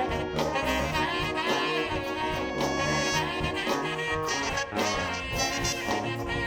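Live soul horn band playing, with the horn section carrying the tune between sung lines over a steady beat.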